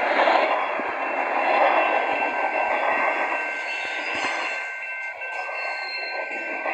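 Freight train passing, a steady noise of wagons running on the rails that eases slightly after about five seconds.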